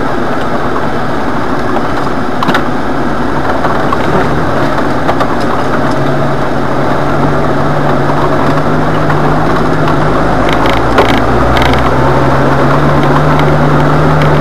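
Jeep 4x4 engine running steadily while driving over a rutted dirt trail, its pitch rising a little around the middle and again near the end. A few short knocks and rattles come through as it goes over the ruts.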